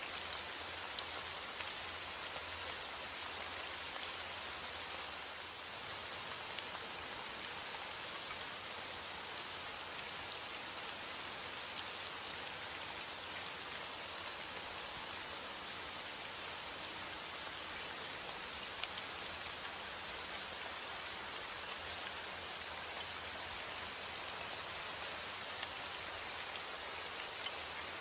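Steady heavy rainfall: an even hiss of rain with scattered individual drops ticking on a surface.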